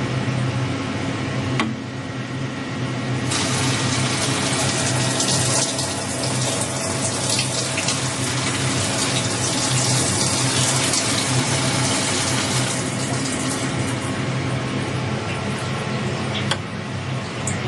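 Emco Turn 220 CNC lathe running with a steady low hum. A loud, even hiss joins it about three seconds in and dies away a few seconds before the end.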